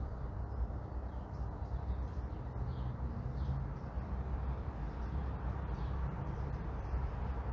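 Neighbourhood morning ambience: a steady low rumble of distant road traffic, with faint short bird chirps now and then.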